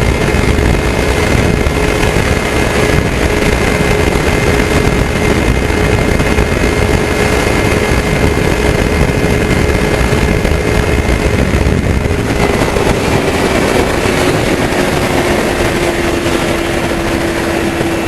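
Kawasaki Ninja 300's parallel-twin engine running steadily at highway speed, under heavy wind rush. Its pitch eases slightly lower about two-thirds of the way through.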